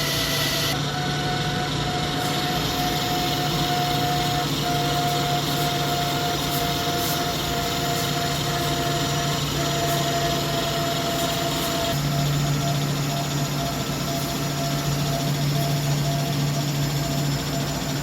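CNC lathe running, with a steady whine over a low hum. The sound changes a little under a second in and again about twelve seconds in.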